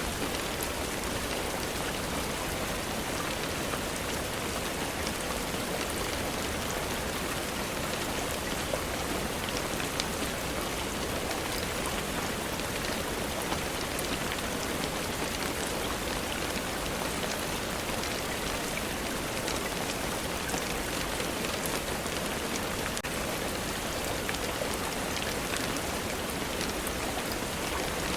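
Steady rainfall: an even, unbroken hiss of rain with scattered small drop ticks.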